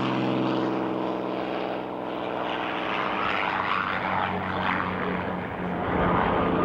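P-51 Mustang's V-12 piston engine droning in flight, its propeller note sagging slightly in pitch and turning rougher, then swelling louder again near the end.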